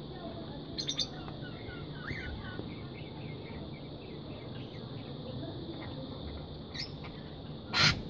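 Soft series of short, quick bird chirps, with a steady high insect drone underneath and a few light clicks. Near the end, a single loud short bump.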